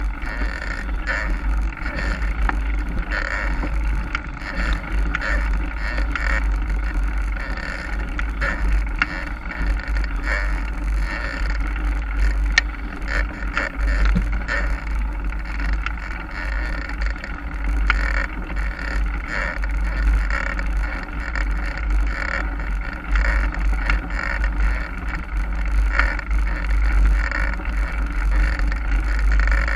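Mountain bike ridden down a forest dirt trail: wind buffeting the camera microphone with a steady low rumble, tyres rolling over the ground, and scattered sharp clicks and rattles from the bike.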